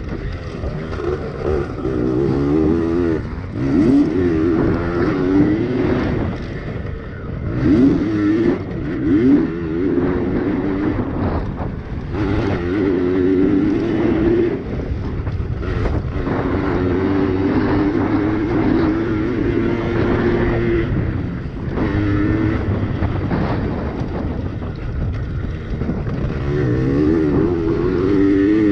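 Yamaha PW80 two-stroke pit bike engine revving hard, its pitch climbing and dropping over and over as the throttle is opened and shut around the track.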